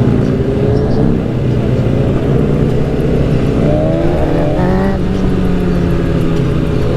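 Motorcycle engine running under way, rising in pitch as it revs up from about three and a half seconds in, then dropping off sharply about five seconds in.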